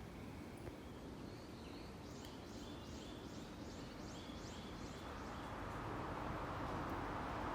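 Japanese bush warbler calling: a short high whistle, then a quick run of about nine repeated notes at roughly three a second. Near the end a passing vehicle's noise rises over a steady low traffic rumble.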